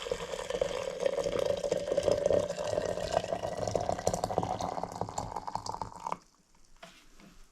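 Water running from a tap into a container, the pitch of the filling rising steadily as the vessel fills. The tap is shut off abruptly about six seconds in.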